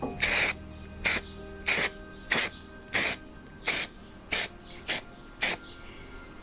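Short bursts of hissing spray, about nine in a row at roughly one and a half a second, each cut off sharply.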